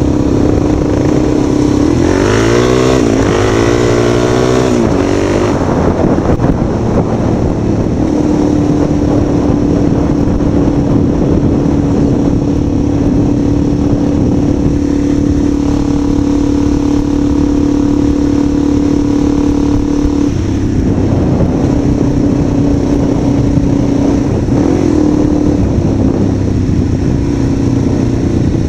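Motor vehicle engine running loudly under way, mostly at an even pitch, revving up and down between about two and five seconds in.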